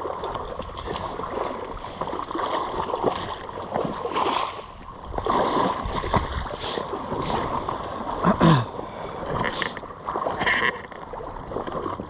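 Shallow floodwater splashing and sloshing in irregular bursts, with a brief falling cry about eight seconds in.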